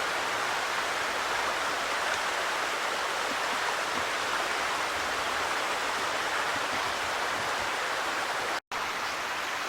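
Small woodland waterfall splashing, a steady rush of falling water that briefly cuts out near the end.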